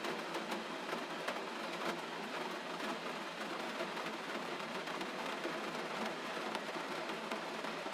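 Gentle rain falling steadily: an even hiss flecked with the light patter of many small drops.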